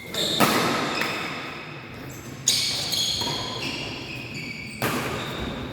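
Badminton rally in an indoor sports hall: three sharp racket strikes on the shuttlecock, a little over two seconds apart, each echoing through the hall.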